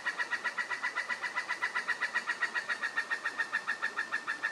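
A bird calling a long, even run of short notes at one steady pitch, about nine a second.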